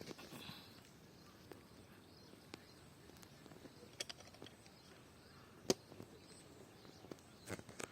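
Quiet rural outdoor background with a few faint, scattered clicks and snaps at uneven spacing, the sharpest a little past the middle.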